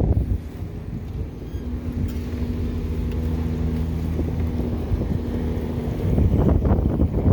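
Wind rushing over the microphone of an electric motorcycle at speed, a heavy low rumble with a steady low hum underneath. The wind gusts louder near the end.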